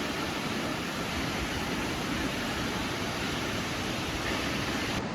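Steady rush of Multnomah Falls, a large waterfall: an even roar of falling water with no breaks.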